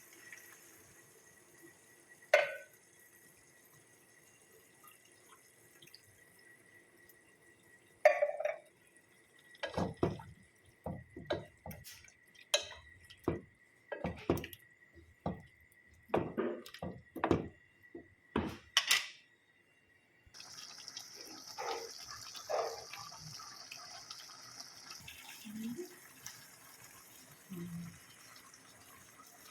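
Liquid dripping and splashing into a container, with a run of irregular knocks and clatter in the middle as things are handled in the kitchen.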